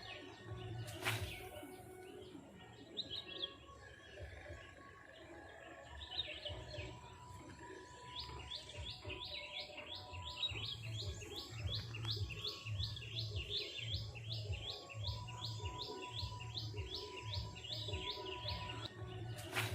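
Wild birds chirping outdoors, one of them repeating a short call about three times a second through the second half. A sharp click about a second in, over a low pulsing rumble.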